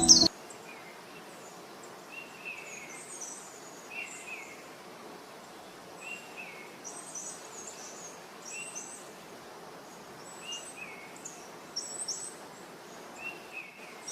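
Birds giving short chirping calls every second or two, some lower and some very high, over a faint steady outdoor hiss.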